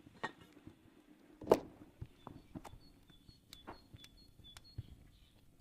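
Scattered light knocks and clicks, the loudest about one and a half seconds in, with short high bird chirps starting about halfway through.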